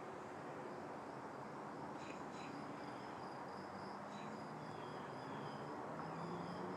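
Crickets trilling steadily in the evening outdoors, a thin high continuous tone over a faint background, with a few brief faint chirps about two and four seconds in. A faint low drone comes up in the second half.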